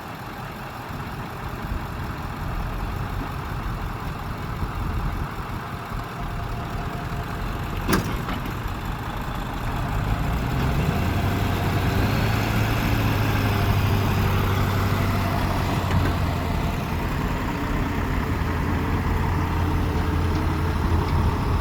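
Truck engine running steadily, its low hum growing louder about ten seconds in and holding there. A single sharp click sounds about eight seconds in.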